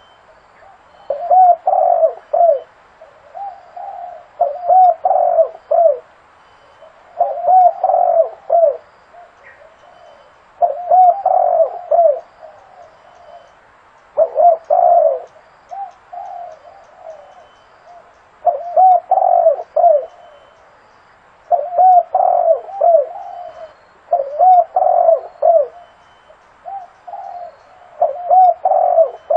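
Spotted dove cooing: a phrase of several low, arching coos repeated every three to four seconds.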